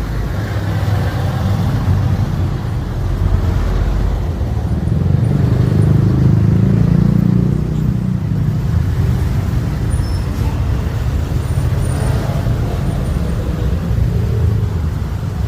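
Street traffic: motor vehicles running and passing close by, a steady low rumble that swells about a third of the way in and then eases.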